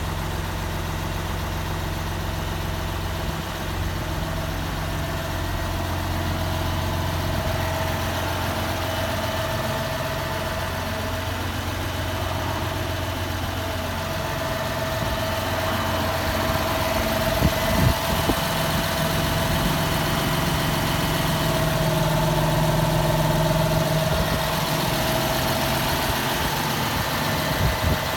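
Massey Ferguson 6480 tractor's six-cylinder diesel engine idling steadily, with a couple of brief knocks about two-thirds of the way through.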